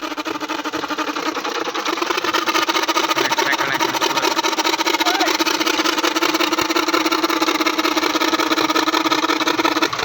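Tractor engine running at a steady speed with a fast, even pulsing beat, cutting off abruptly at the end.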